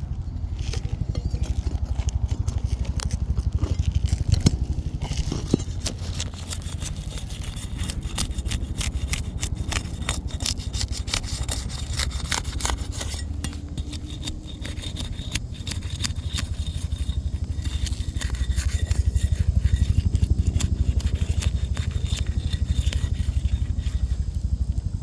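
Asphalt roof shingles being pried up and worked loose, with many short scrapes and clicks as they are lifted and their sealant strips break free, over a steady low rumble. The scraping thins out in the last third.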